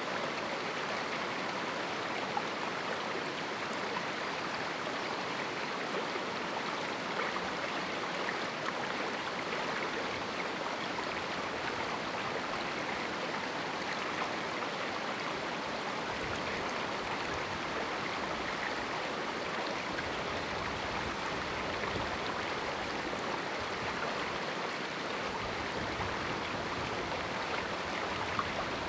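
A small canyon river rushing and splashing over rocks, a steady, even flow of running water.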